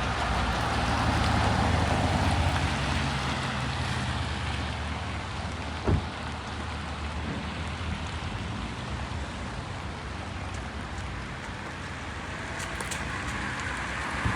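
Steady rain hissing on a wet street, with a vehicle's engine running low in the first half. There is a single sharp knock about six seconds in.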